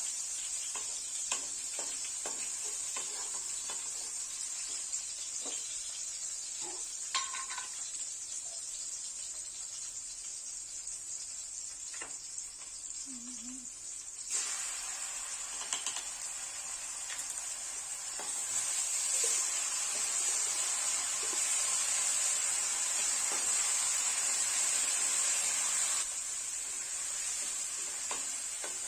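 Food sizzling in a hot pan while being stirred, with scattered clicks of a utensil against the pan. The sizzle grows fuller about halfway through and is loudest for several seconds before easing near the end.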